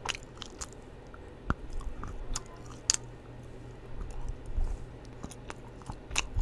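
Close-miked chewing and mouth sounds of milk chocolate being eaten off a chocolate spoon: scattered short clicks and smacks, the sharpest about one and a half seconds in and another about three seconds in.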